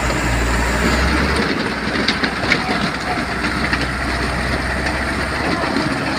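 Heavy truck's diesel engine running under load with its tyres crunching and grinding over loose gravel and rocks, with scattered sharp clicks of stones throughout.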